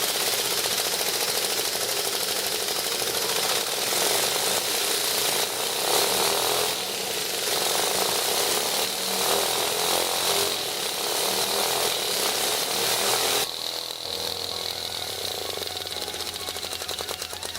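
A small engine running fast with a steady, rapid mechanical rattle. About three-quarters of the way through, it drops in level and thins, and a low hum comes in.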